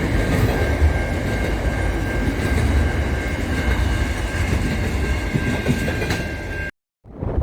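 Train running on the rails: a steady heavy rumble with a thin high ringing tone above it. It cuts off abruptly near the end.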